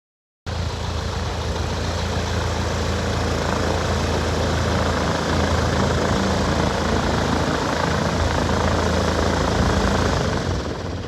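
Small propeller airplane's piston engine running steadily close by, starting abruptly half a second in and dying away near the end.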